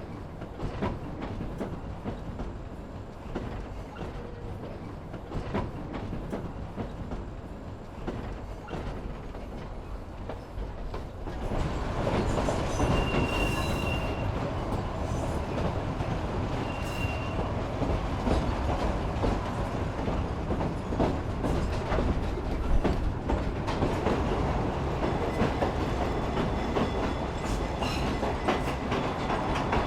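Narrow-gauge train's steel wheels rumbling and clicking over the rails. About eleven seconds in the running grows louder, and a short high wheel squeal comes twice, around thirteen and seventeen seconds in.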